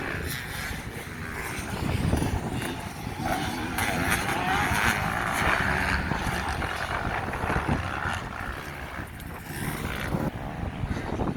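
Motocross bikes' engines revving hard on the throttle, growing loudest about four to six seconds in as they pass and then fading.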